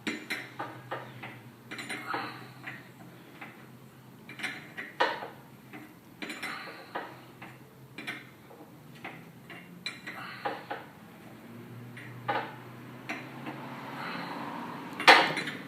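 Metal tools and parts clinking and knocking in irregular strikes, with the loudest knock near the end.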